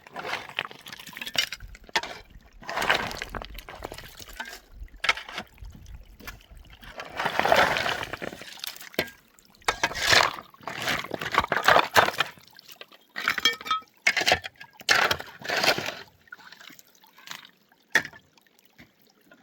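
Water sloshing and pouring in irregular bursts of a second or two, easing off about three-quarters of the way through, with one sharp knock near the end.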